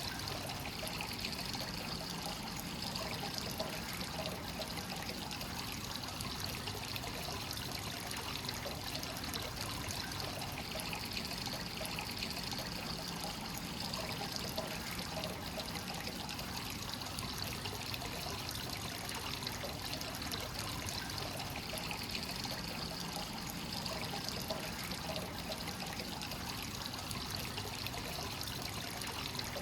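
Free-flowing hot spring water pouring steadily into a bath, a continuous even trickle.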